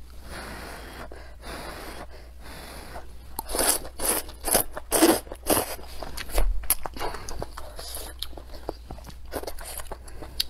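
Close-miked eating of wide noodles with chilies and scallions: a few seconds of slurping and hissy mouth noise, then from about three and a half seconds in many crisp, wet chewing and crunching clicks.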